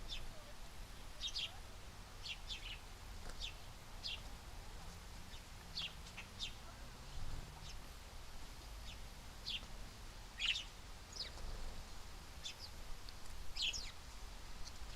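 Small birds chirping at a feeder: short, high, quick notes, irregularly spaced, about one or two a second, over a faint low rumble.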